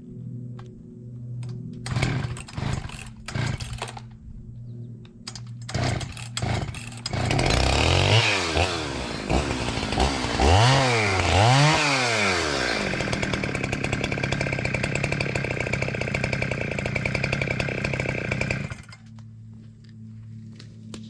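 Two-stroke chainsaw, with a few short sputtering bursts before it catches about seven seconds in. It revs up and down several times, runs steadily at high speed, and cuts off abruptly near the end.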